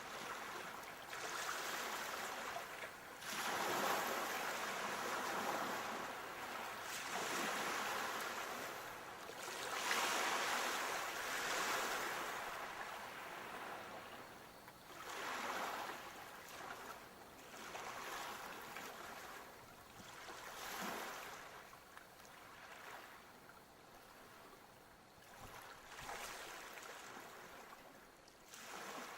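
Sea waves breaking, a rushing surf that swells and falls back in surges every few seconds, stronger in the first half and gentler towards the end.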